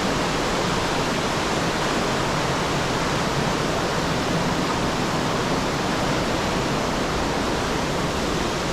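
Waterfall pouring steadily, a dense, unbroken rush of water; the creek is running high after heavy rain.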